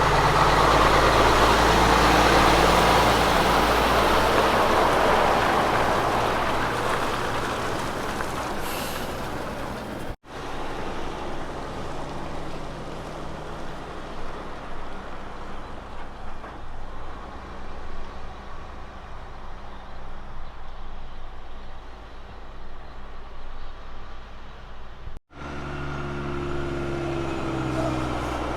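Diesel road train passing close by, its engine and tyre noise loudest in the first few seconds, then fading. After a sudden cut, a truck runs more quietly for a while. After another cut near the end, a truck engine runs with a clear low drone.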